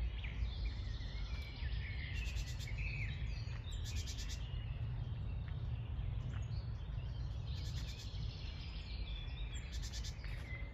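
Several songbirds singing, with short rapid trills about 2, 4, 8 and 10 seconds in, over a steady low rumble.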